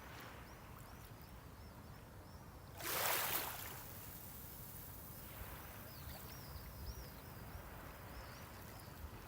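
Sea waves on the shore: a small wave breaks and rushes up the beach about three seconds in, loudest of all, and a fainter wash follows a couple of seconds later over a low steady rumble of surf.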